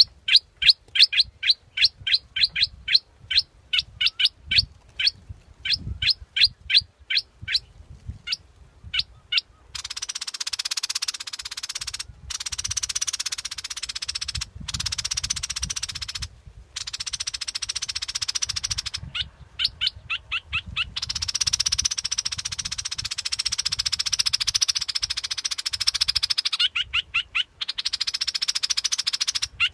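Bulbul calling: a quick run of sharp, repeated chirps, about three a second, for roughly the first ten seconds. After that a dry buzzing sound takes over for long stretches, broken by two or three short bursts of the same chirps.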